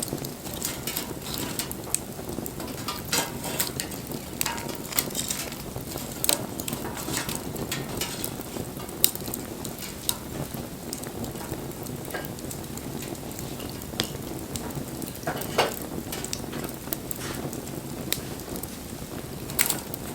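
Wood bonfire crackling: irregular sharp pops and snaps over a steady low rush of burning.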